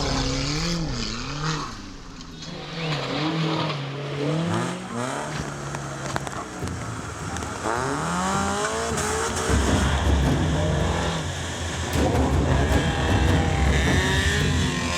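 Engine of a modified off-road 4x4 revving up and down repeatedly as it works through an obstacle, then running heavier and steadier about two-thirds of the way through.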